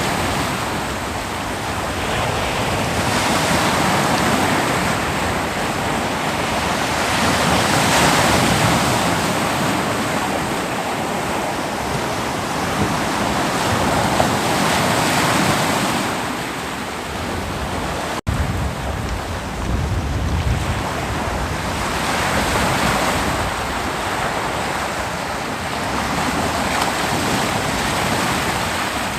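Ocean surf washing onto a beach, swelling and easing every four to five seconds as each wave breaks and runs back. A momentary dropout cuts the sound about two-thirds through.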